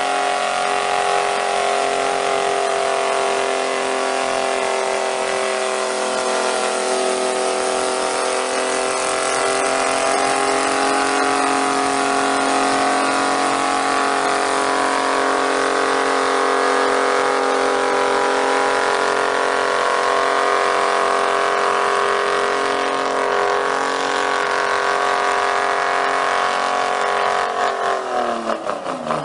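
Pulling truck's engine running flat out at high, steady revs through a long pull. Near the end the revs drop away.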